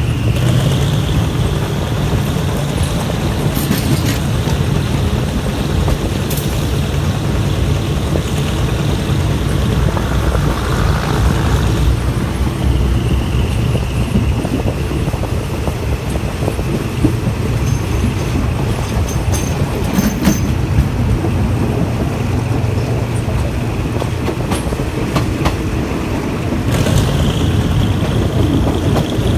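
Diesel-hauled passenger train running on the rails, heard from on board: a steady rumble of wheels on track with scattered clicks and a faint high squeal that fades in and out several times.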